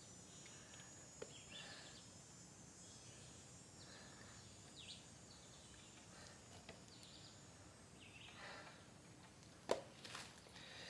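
Near silence: faint outdoor ambience with a few light rustling and handling sounds and faint high chirps. There is a sharp knock near the end.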